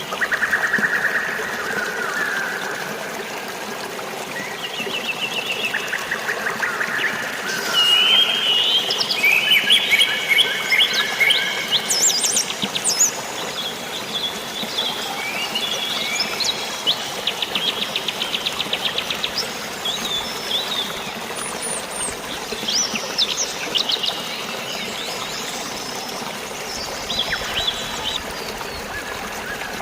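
Several birds chirping and trilling, busiest in the middle and again near the end, over a steady hiss of falling and running water.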